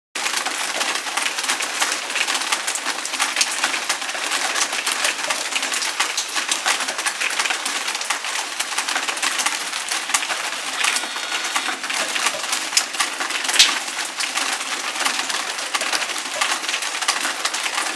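A dense, steady chorus of birds calling and chirping.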